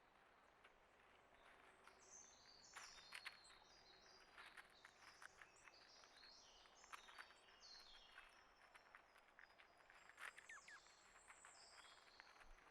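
Faint birdsong: runs of short high chirps that step down in pitch, starting about two seconds in and going on in quick succession, with scattered small clicks and taps mixed in.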